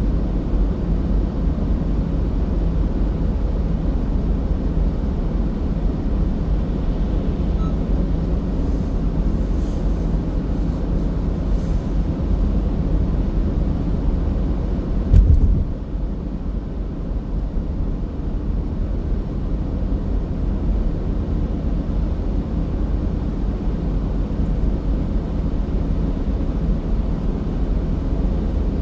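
A car driving at steady speed: a constant low rumble of tyres on the road and the engine, with one short thump about halfway through.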